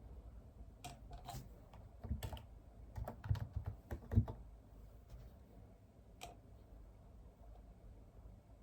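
Typing on a computer keyboard: an irregular run of keystrokes for a few seconds, the loudest near the end of the run, then one lone tap a couple of seconds later.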